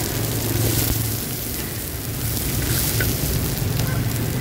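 Bánh xèo batter sizzling in hot pans: a steady frying hiss over a low steady hum.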